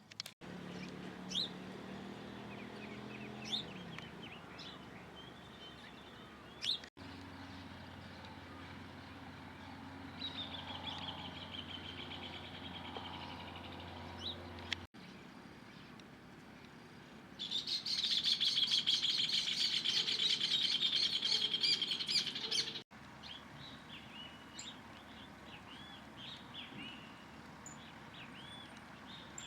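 Small birds chirping and calling in a series of short clips joined by abrupt cuts. The loudest is a fast, dense trill that starts about halfway through and lasts about five seconds.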